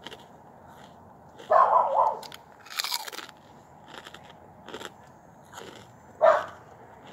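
Close-up crunching and chewing of crispy fried food, with a few short, loud crunches.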